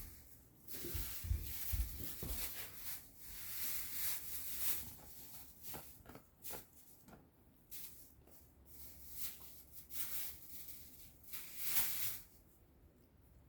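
A puppy gnawing on a dog chew: irregular crunching, clicking and scraping sounds, with a louder crunch near the end.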